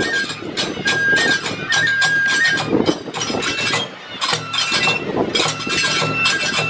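Kagura festival music: a bamboo flute holds high notes over quick, regular strikes of drum and small hand cymbals.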